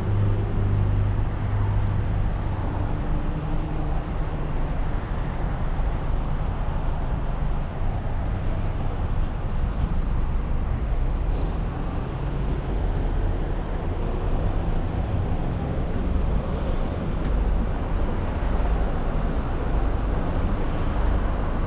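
Steady road and engine noise inside a moving car's cabin: a low rumble with tyre hiss.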